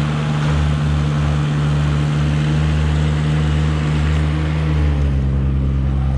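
Engine of a tracked lift running steadily while it is driven into position on its tracks, its note shifting slightly about five seconds in.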